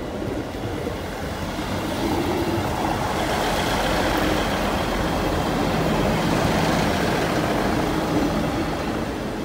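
Class 158 diesel multiple unit passing, engine drone and wheel rumble building over the first couple of seconds, loudest in the middle, then easing off.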